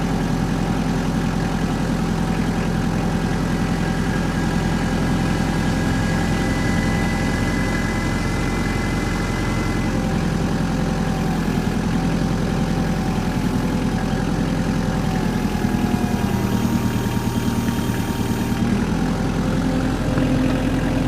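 Engine idling steadily, its tone shifting a little with a slight pulsing about three-quarters of the way through.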